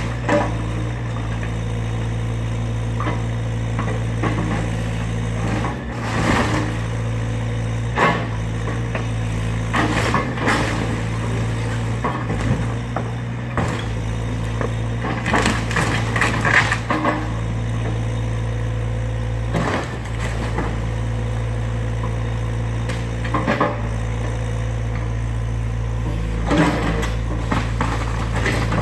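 Excavator's diesel engine running steadily under load while it demolishes a wooden garage, with irregular loud cracks and crashes of timber being crushed and splintered, the heaviest a little after halfway.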